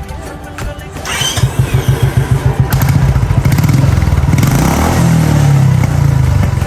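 Royal Enfield Classic 350 single-cylinder engine starting about a second in and running through an aftermarket exhaust with a quick, even thump. It is revved up a little around the middle. The new exhaust is less loud and bassy than the one compared, but gives a pat-pat popping crackle.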